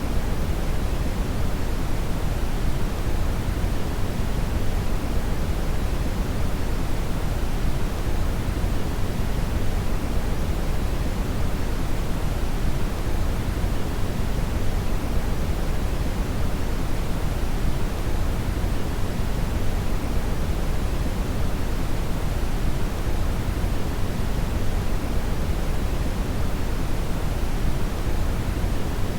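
Steady synthetic brown noise (red noise): an even, deep rushing hiss weighted toward the low end, unchanging throughout.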